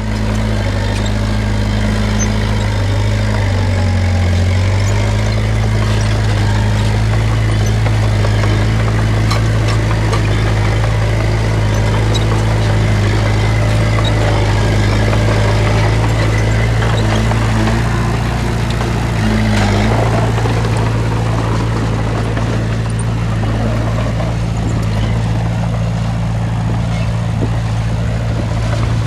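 Heavy diesel engine of earthmoving machinery running steadily under a low hum, its note shifting briefly about four seconds in and again around twenty seconds.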